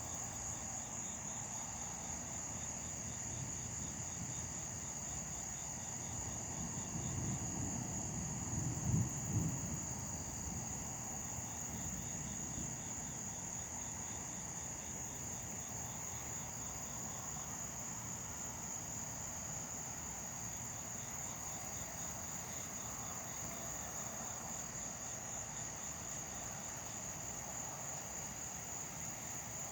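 Insects trilling steadily in a chorus, with a high continuous trill and a fainter rapid chirping beneath it. About seven seconds in, a low rumble swells, peaks briefly two or three seconds later, then fades.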